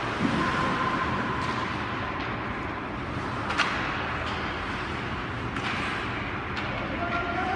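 Ice hockey rink during play: a steady wash of skates on ice and arena noise, with a few sharp clicks of sticks on the puck, the loudest about three and a half seconds in.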